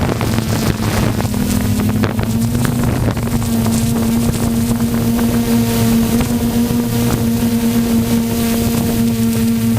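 An engine running steadily at an even speed with a constant hum, and wind buffeting the microphone.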